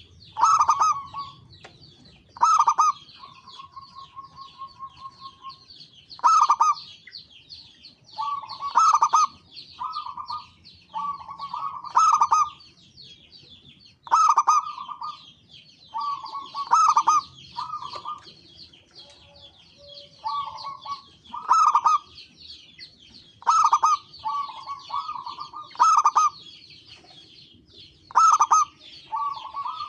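Zebra doves (perkutut) cooing in repeated short phrases of rapid notes, about one phrase every second or two, with one long steady note a few seconds in. A continuous high-pitched chatter runs behind them.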